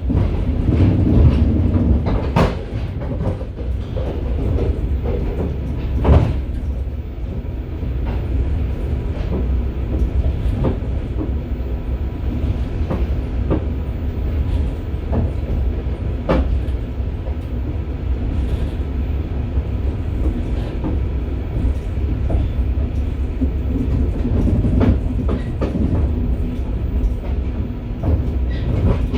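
Steady low rumble of a moving passenger railway car heard from inside its vestibule, with irregular sharp knocks from the wheels passing over rail joints; the loudest knock comes about six seconds in.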